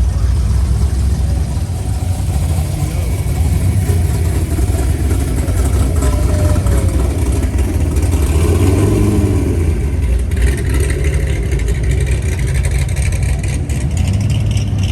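Car engines running at low speed as cars drive slowly past, a deep steady rumble. About ten seconds in, a higher steady whine joins in.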